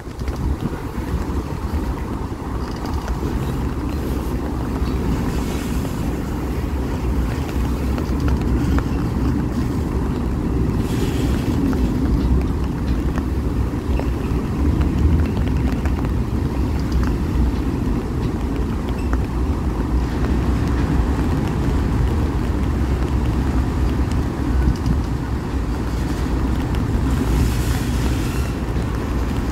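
A train rolling past: a steady low rumble of wheels on the rails, with wind on the microphone.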